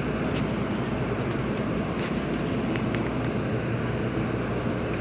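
Steady low rumble of idling bus engines.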